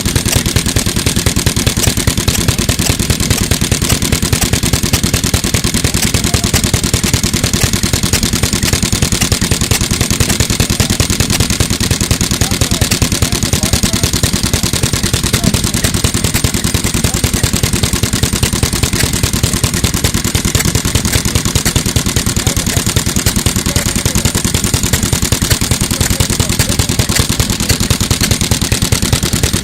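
1950s Mitsubishi Katsura Type J1 3 hp single-cylinder stationary engine running steadily, firing in an even, rapid rhythm.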